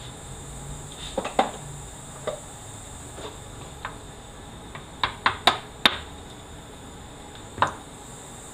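Scattered metallic clinks and clanks of hand tools and transmission parts being handled on a workbench: a few knocks early on, a quick run of four sharp clinks around the middle, and one more near the end.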